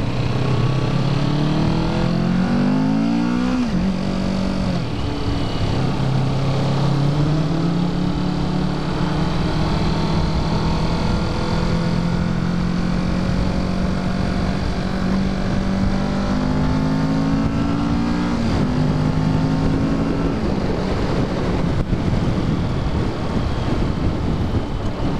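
2017 Kawasaki Ninja 650's parallel-twin engine on its stock exhaust, ridden under way: the revs climb and then drop sharply at an upshift about four seconds in, build slowly and hold, then fall sharply again twice near the end. Wind noise rushes across the microphone throughout.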